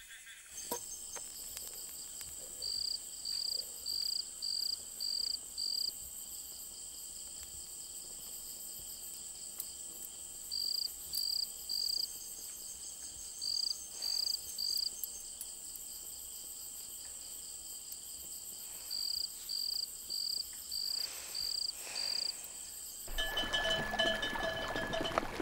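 Night insect chorus: a steady high drone with a cricket chirping in runs of about six pulses, repeated every few seconds. Near the end it cuts sharply to louder open-air sound with cattle bells ringing.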